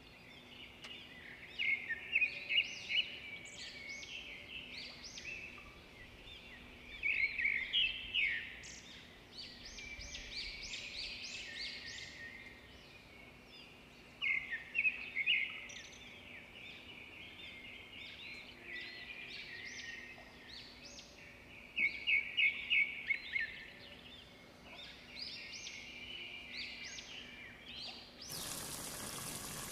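A songbird sings short phrases of quick, high chirps, repeated every six or seven seconds, over a faint steady hum. Near the end a loud steady hiss sets in.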